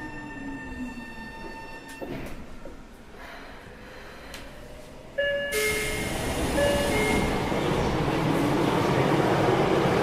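Inside a Tokyo Metro 03 series armature-chopper train car: the chopper control's steady whine cuts off about two seconds in as the train brakes to a stop. About five seconds in, a sudden rush of noise starts, with a two-note chime sounding twice, and the noise swells toward the end.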